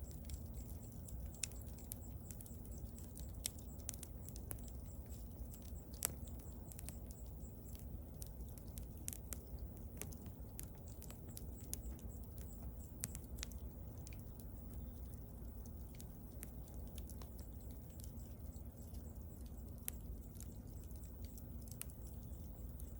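Wood bonfire burning: irregular sharp crackles and pops over a low steady rumble, with one louder pop about six seconds in.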